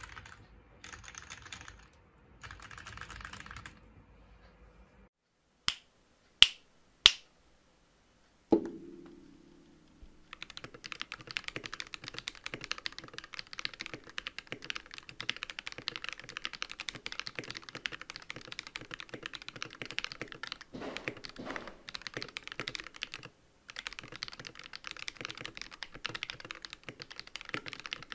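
Mechanical keyboard typing test on a GK64 fitted with Creamerons switches: fast, continuous keystroke clatter from about ten seconds in, with a short pause near the end of the run. Before it come a little typing, three sharp clicks and a single thud.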